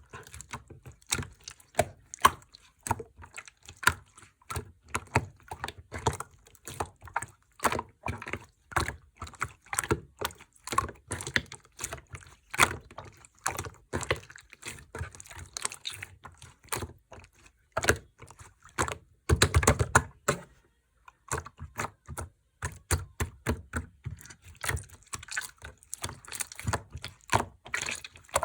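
Slime being kneaded and mixed by hand, making rapid sticky clicks and pops, with a louder, denser squish a little before two-thirds of the way through and a brief pause just after.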